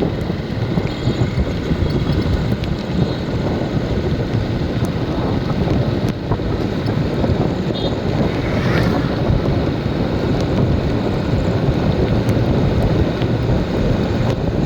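Steady, continuous rain, with wind rumbling on the microphone.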